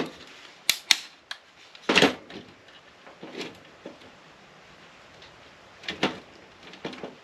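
Hand cutters nipping solder and wire off small brass parts, with sharp snips and short metallic clatters of the pieces. About a dozen irregular clicks and knocks: several sharp snips in the first second and a half, a longer rattle about two seconds in, and another pair of knocks about six and seven seconds in.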